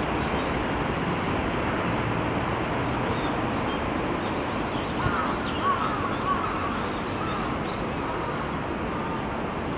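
Crow cawing several times in quick succession about halfway through, over a steady background hiss.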